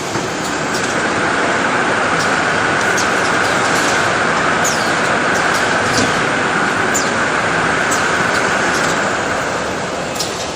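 Toilet paper processing machinery running: a loud, steady mechanical noise with a steady mid-pitched tone that builds in about a second in and fades away near the end, over scattered light clicks.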